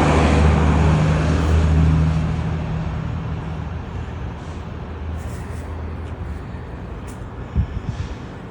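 A motor vehicle's engine drone, loud at first and fading away over about four seconds as it passes and recedes, leaving traffic noise with a few small knocks near the end.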